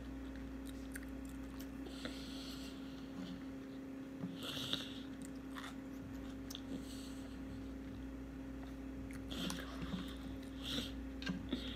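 A person chewing food with the mouth closed: soft, wet mouth clicks and smacks, a few louder ones around the middle and near the end, over a steady low hum.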